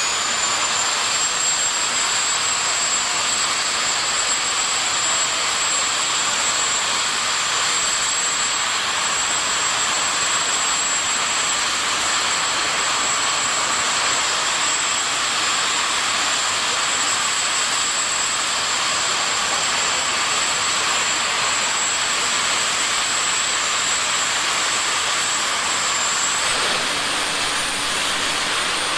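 Jet drag-racing car's turbine engine running steadily with a loud rush and a high whine, the whine stepping up in pitch near the end.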